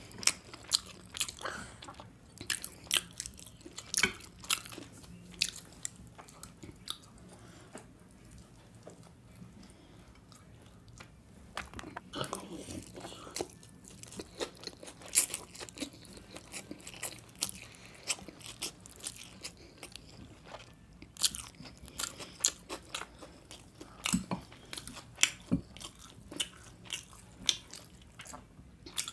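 Close-miked eating: bites and chewing with many short, sharp crackly clicks, sparser for a few seconds around the middle.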